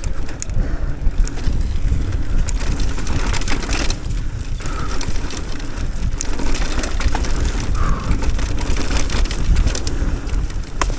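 Mountain bike riding down a dirt trail: tyres rumbling and crunching over dirt and rocks with the bike clattering over the bumps, and wind buffeting the microphone.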